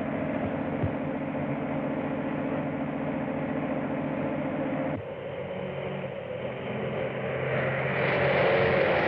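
An engine running steadily with a fast even pulse. About five seconds in the sound cuts to another engine sound, which grows louder toward the end.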